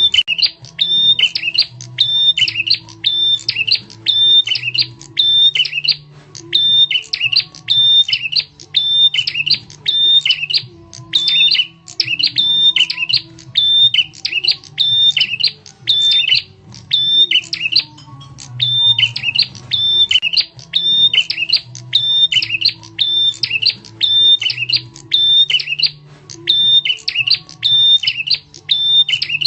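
Prenjak tamu (a prinia) giving its loud, sharp lure call: quick chirps repeated about twice a second in long runs, with a few brief pauses.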